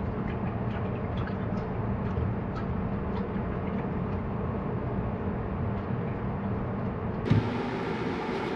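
Dodge Charger engine idling steadily while freshly added coolant is cycled through the cooling system, with a single thump near the end.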